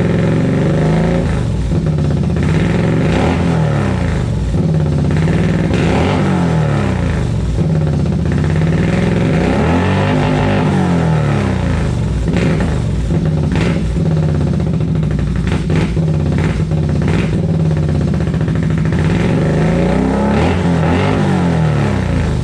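Can-Am Renegade XMR ATV's V-twin running through an SLG Performance Series aftermarket exhaust, idling with repeated throttle blips, the pitch rising and falling again every few seconds.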